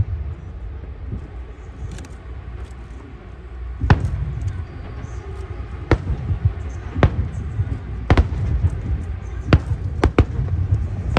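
Aerial fireworks shells bursting: about seven sharp booms at irregular intervals over a continuous low rumble from the display.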